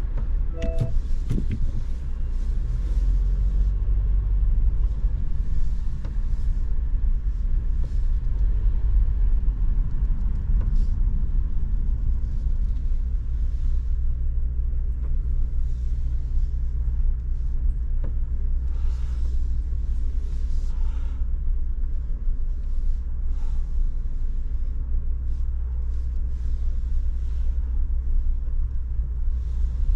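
Steady low rumble of road and running noise inside a Honda ZR-V's cabin, with occasional faint swells of hiss.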